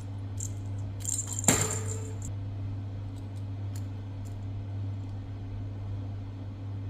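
A small metal object clinks once, sharply, about a second and a half in and rings briefly, with a few faint jingles and ticks around it, over a steady low hum.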